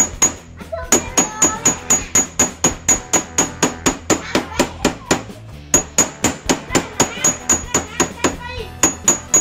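Small hammer striking metal wire on a steel block, quick regular blows about four a second, each with a bright metallic ring, with a few short pauses. The wire is being hammered into shape for a fishing hook.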